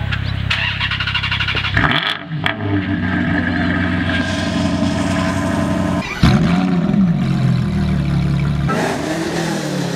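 Car engines running and revving, with the sound changing abruptly about two, six and nine seconds in. After about six seconds the engine pitch rises and falls.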